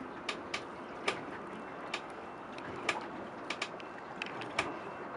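A fishing reel clicking irregularly, about two sharp clicks a second, as a hooked sturgeon is played on the line, over a steady background hiss.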